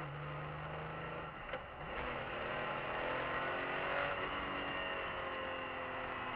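BMW E46 M3's S54 straight-six heard from inside the cabin under hard acceleration: it runs steady at first, then its pitch climbs as the revs rise from about two seconds in.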